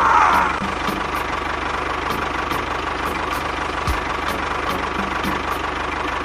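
A small motor running steadily with a fast, even low ticking and a constant hum, with a short falling whistle-like sweep right at the start.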